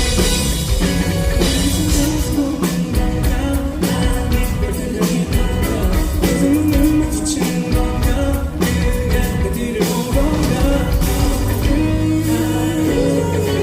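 Live band playing an upbeat pop-rock song with electric guitar and drums, with singing.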